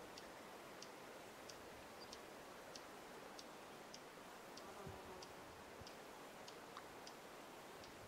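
Dark-eyed junco giving faint, high chip notes, evenly repeated about every two-thirds of a second, over a quiet hiss.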